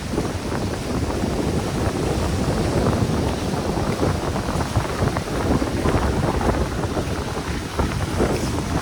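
Strong wind buffeting the microphone, a steady dense rumble, with surf washing underneath.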